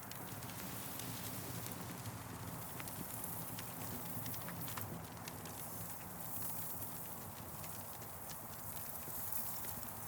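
Campfire crackling, with irregular sharp pops and snaps over a steady rushing hiss.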